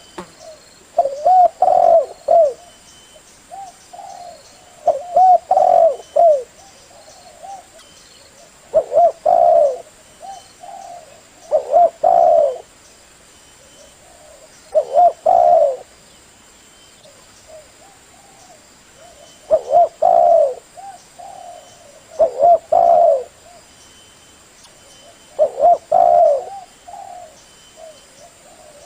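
Male spotted dove (tekukur) cooing, the lure call used to draw in other doves. About eight short, multi-note coo phrases repeat every three to four seconds with brief pauses between them.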